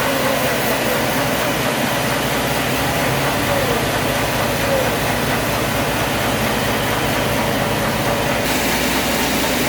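An engine running steadily, with a shift in its low-pitched sound about three seconds in and again near the end.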